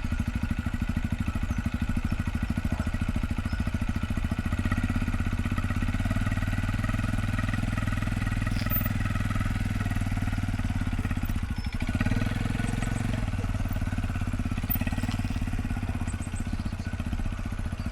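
Motorcycle engine idling steadily close by, with an even, unchanging beat.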